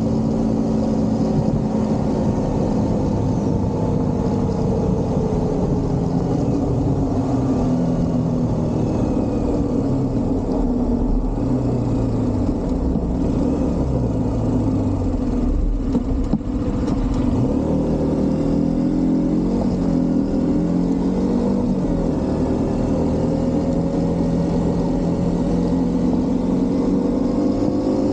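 Single-cylinder motorcycle engine heard while riding, its pitch rising and falling in steps through gear changes, over steady wind noise. The sound dips briefly about halfway through.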